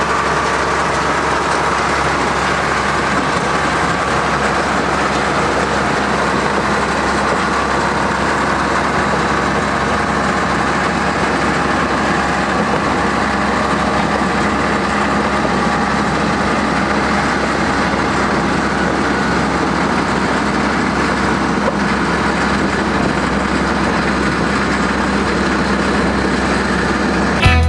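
Heavy earthmoving machine's diesel engine running steadily under work, its pitch and level holding constant throughout.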